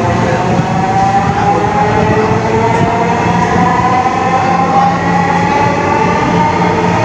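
Dhaka Metro MRT Line 6 train heard from inside the carriage: a steady running rumble with an electric motor whine that slowly rises in pitch as the train picks up speed.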